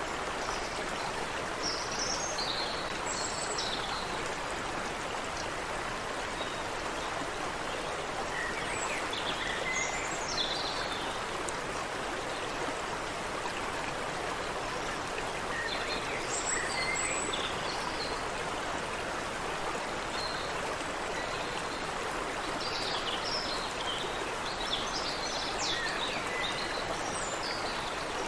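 Creek water running steadily over rocks, with birds chirping in short flurries of high calls every several seconds.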